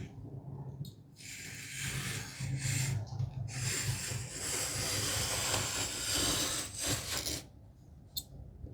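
Masking tape being pulled off the roll and rubbed down onto the wooden slats, a dry ripping and rubbing noise in two long stretches.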